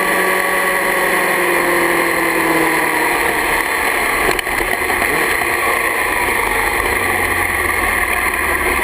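Yamaha R6 inline-four engine under heavy wind rush on the camera microphone, its note falling as the bike slows, then falling again a few seconds later. A single sharp click about four seconds in.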